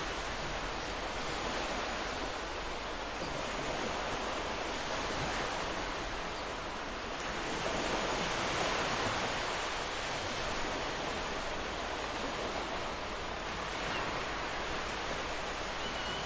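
Ocean surf breaking on a beach: a continuous wash of waves that swells and eases, loudest a little past the middle.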